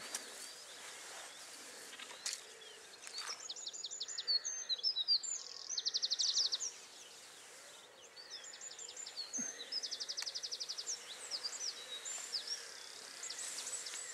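A songbird singing two loud, high-pitched phrases of rapid repeated notes and fast trills, each a few seconds long, starting about three seconds in and again about nine seconds in.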